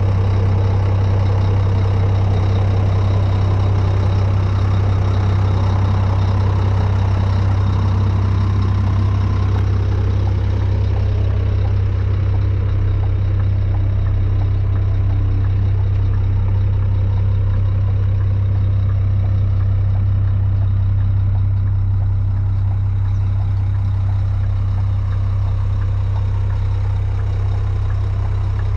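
Scania G420 truck's six-cylinder diesel engine idling steadily, a constant deep hum that eases off slightly in loudness near the end.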